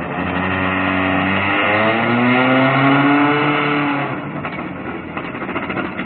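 Car engine accelerating: its pitch holds, breaks and drops about a second and a half in, then climbs steadily for a couple of seconds before the engine note fades away.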